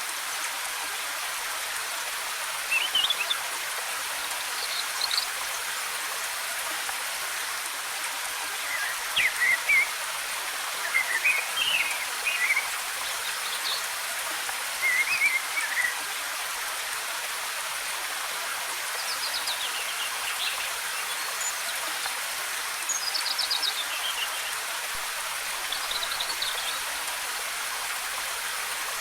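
Steady rushing of a waterfall, with short bird chirps and trills breaking in every few seconds.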